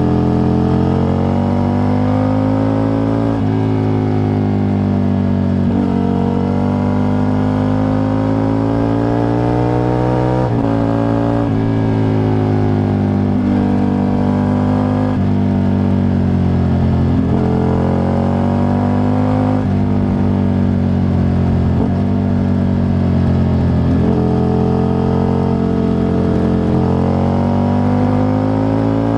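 Aprilia RSV Mille 1000's 60° V-twin engine under way, heard from under the seat with no wind noise. Its note rises and falls with road speed and breaks sharply several times as gears are shifted.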